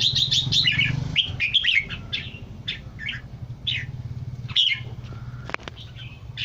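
Red-whiskered bulbul calling: a quick run of short chirping notes over the first two seconds, then single chirps every half second or so, over a steady low hum.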